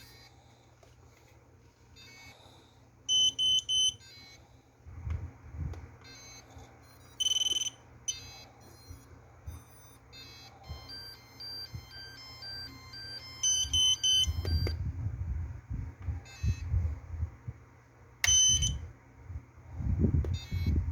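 Short electronic beeps and stepped tone sequences that sound at intervals, mixed with low bumps and rumbles.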